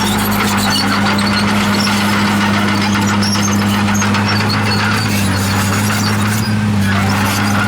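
Komatsu D51PX bulldozer's diesel engine running steadily, with scattered high squeaks and clinks from its steel tracks.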